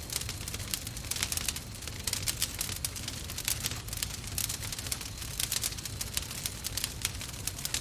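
Wood fire burning in a fireplace, crackling and popping in quick irregular snaps over a steady low rumble of the flames.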